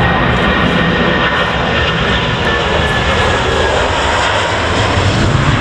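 Jet airliner engines running loud and steady, with a thin whine that fades out partway through; the deep rumble grows stronger near the end.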